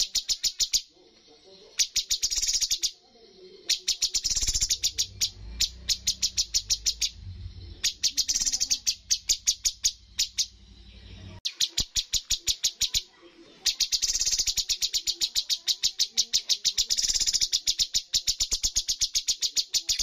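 Cucak cungkok bird singing in phrases of rapid, evenly repeated sharp notes, several phrases broken by short pauses, then one long unbroken run from about fourteen seconds in. A low steady hum lies under the song for several seconds in the first half.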